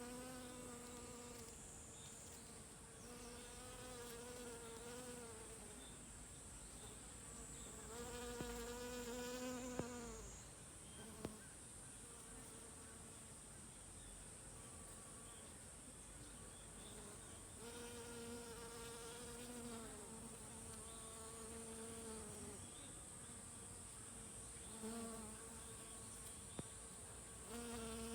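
Honeybees buzzing while foraging on flowers. The hum comes and goes in bouts of a few seconds, over a faint steady high-pitched hiss.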